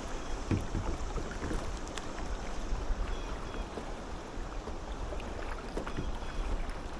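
Water lapping and dripping around a kayak drifting on a calm river, a steady watery wash with a few light ticks, over a low rumble of wind on the microphone.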